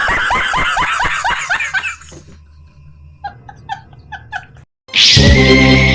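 Cartoon laughter sound effect, a quick run of rising chirps for about two seconds, then a short string of quick blips; loud music starts near the end.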